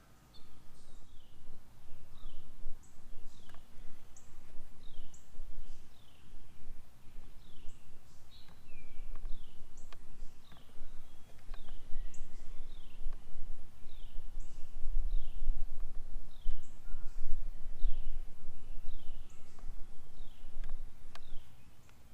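Songbirds chirping steadily: short, high, down-slurred notes repeating about twice a second, over a low fluttering rumble.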